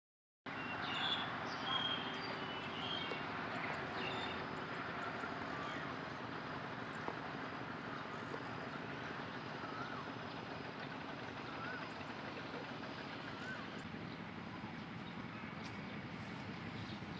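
Birds calling in trees over a steady outdoor hiss: a cluster of short calls in the first few seconds, then a few faint whistled notes later on.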